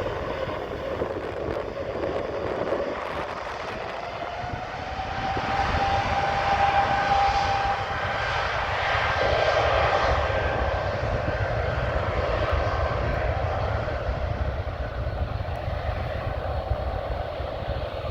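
Airbus A220-100 jet airliner taking off, its turbofan engines at takeoff thrust: a steady jet noise with a whine that rises in pitch over the first several seconds and is loudest around the middle, easing slightly as the aircraft climbs away.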